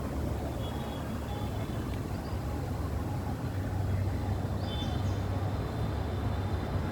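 Steady low outdoor background rumble, like distant traffic, with a few faint short high chirps.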